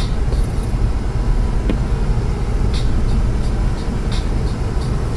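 Steady, loud low rumble of blizzard wind on the microphone, with short faint hisses every second or so.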